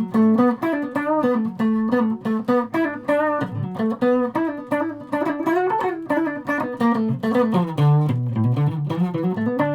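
Electric guitar played through an amp with a series pickup combination selected, the middle pickup among them. It plays a continuous phrase of picked single notes and chords, dipping to lower notes near the end.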